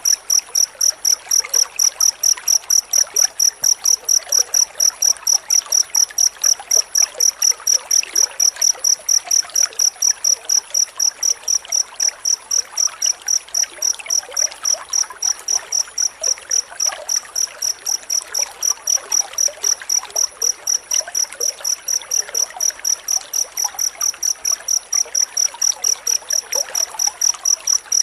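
Cricket chirping continuously in a fast, even train of high-pitched pulses, several a second, with no pauses.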